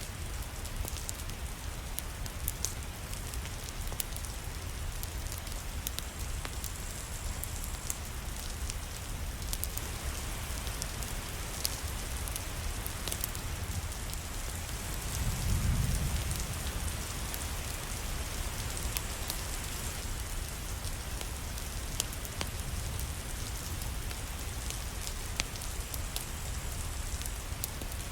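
Steady rain falling, with scattered sharp crackles from a wood fire in a fireplace. About halfway through comes a brief low rumble.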